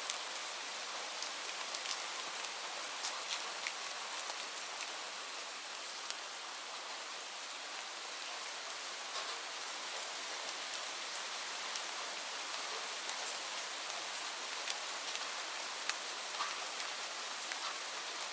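Steady rain falling on leaves: a constant hiss of rainfall with many separate drops pattering sharply on top.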